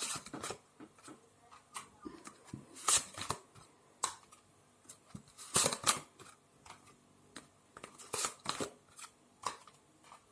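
Tarot cards being handled: irregular crisp snaps and short swishes of card stock, about a dozen spread through the stretch.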